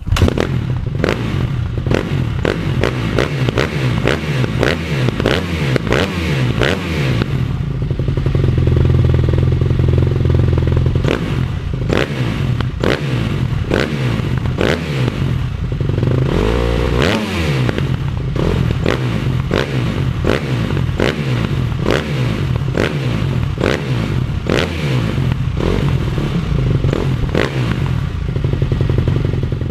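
2010 KTM SX-F 250's single-cylinder four-stroke engine on its stock exhaust, running and being revved with repeated quick throttle blips about once a second. About a third of the way in the revs are held up for a few seconds, and past the middle one rev sweeps up and back down.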